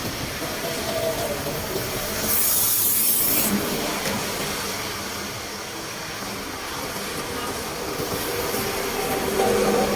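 Water rushing steadily through a culvert drain. A louder hiss of about a second comes roughly two seconds in.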